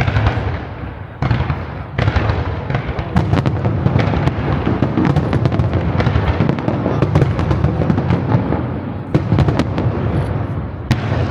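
Aerial fireworks bursting in a rapid barrage: a few loud booms about a second apart, then a dense run of overlapping booms and sharp crackling reports, with another flurry of cracks near the end.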